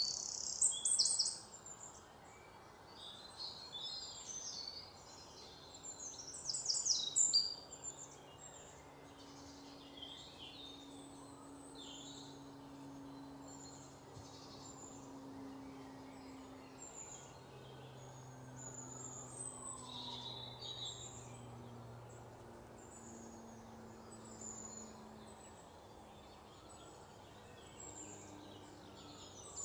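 Small birds chirping and twittering throughout, loudest in the first second or so and again about six to seven seconds in, over a steady faint hiss. A faint low hum wavers in the background, with a faint slow rising-and-falling tone in the middle.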